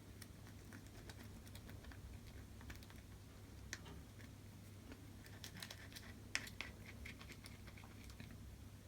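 Faint, irregular clicks and light scratches of a plastic razor blade scraping softened adhesive off a phone's LCD panel, busiest past the middle, over a steady low hum.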